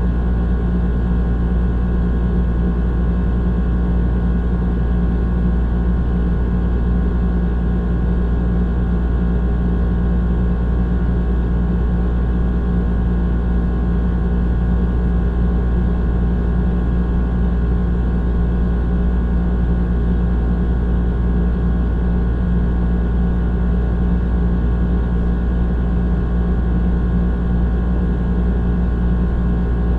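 Old air conditioner running steadily: a deep constant hum with a drone of several steady tones over a fan-like rush of air.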